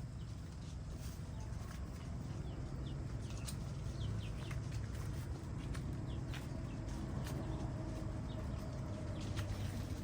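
Birds chirping in short high calls scattered through, over a steady low rumble.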